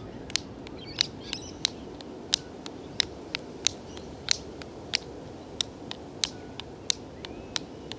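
Hand-held stones struck together as percussion: loud clicks keep a steady beat of about three every two seconds, while quieter, irregular stone clicks improvise around it.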